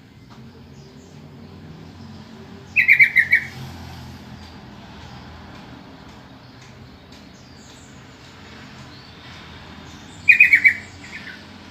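Yellow-vented bulbul (trucukan) calling: two short phrases of about five quick notes each, one about three seconds in and one near the end. A few faint chirps and a steady low background noise run between them.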